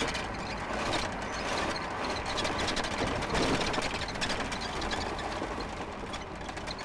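Vehicle running at speed on the road: steady engine and road noise with a dense, rushing hiss, easing slightly near the end.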